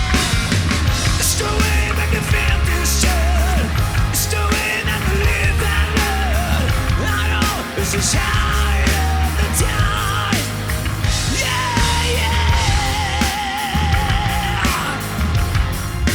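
Live hard rock band playing: distorted electric guitar, bass and drums, with a high lead line that bends and is held with vibrato near the end.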